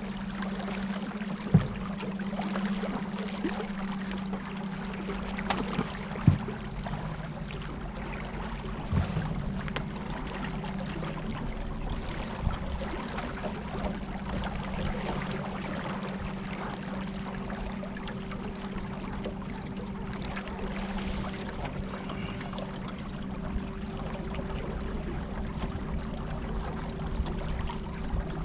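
Electric trolling motors running with a steady low hum, over the sound of water rushing and splashing. Three sharp knocks come in the first ten seconds or so.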